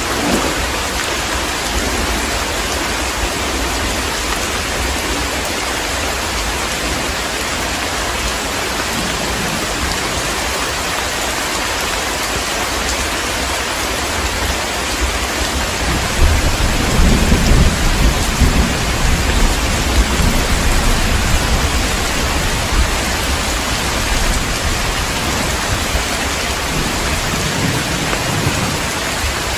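Heavy rain falling in a steady dense hiss, with a long low rumble of thunder rolling in about halfway through and dying away over several seconds.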